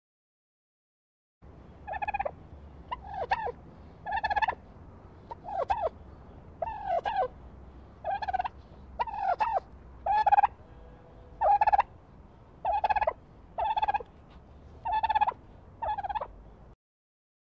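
A male turkey gobbling over and over, a dozen or so short gobbles about a second apart, starting about a second and a half in.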